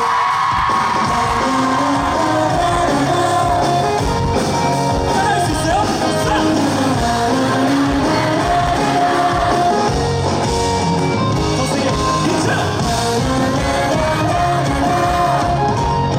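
Live band music played loudly through a hall's sound system, with a sung or held vocal line over it and the audience shouting.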